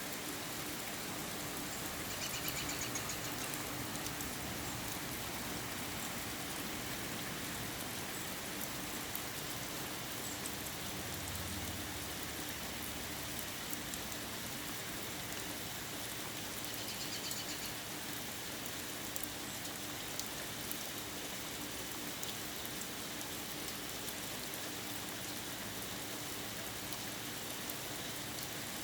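Steady rain shower falling on foliage and ground, an even hiss with many scattered individual drops.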